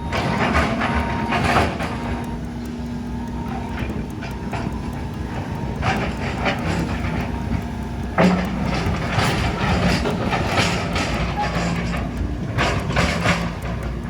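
Heavy demolition machinery at work: a steady engine drone with a hum, and repeated clanks and crashes of metal and debris, the loudest about eight seconds in.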